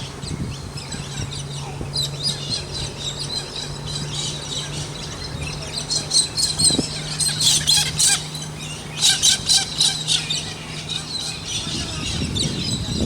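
Small birds chirping and twittering in quick runs, busiest in the middle, over a steady low hum.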